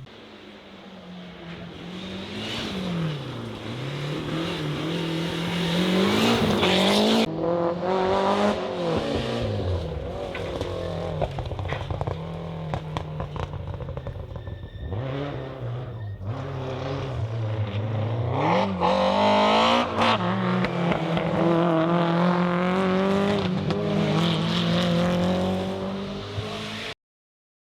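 Rally car engines revving hard, their pitch climbing and dropping again and again as the cars accelerate, shift and brake past, one clip after another. The sound cuts off abruptly near the end.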